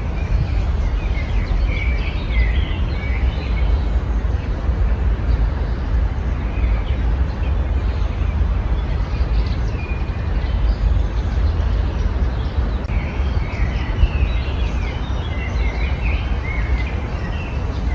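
Small songbirds chirping and twittering in short scattered phrases, busiest about two seconds in and again in the last few seconds, over a steady low rumble.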